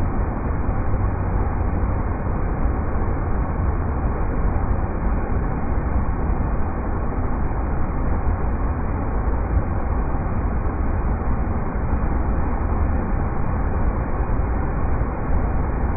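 River rapids rushing: a steady, deep roar of water with no breaks.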